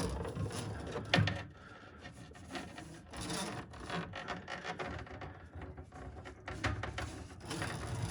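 Steel drain snake cable being pulled back out of a clogged drain, scraping and rubbing in irregular strokes, with a sharper knock about a second in.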